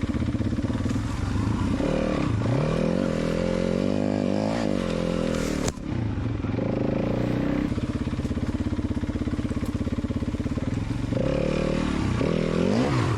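Four-stroke single-cylinder dirt bike engine under way, its pitch rising and falling as it is revved and shifted, with a single sharp knock about six seconds in.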